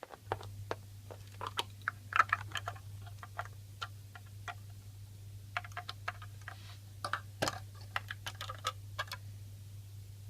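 Irregular light clicks and taps, some in quick clusters, over a steady low electrical hum.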